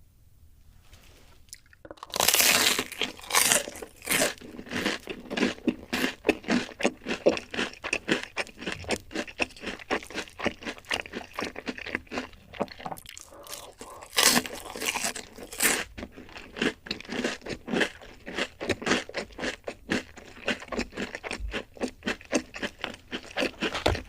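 Close-miked crunchy chewing of food, a fast run of sharp crunches several per second, starting about two seconds in, with a louder burst of bites midway.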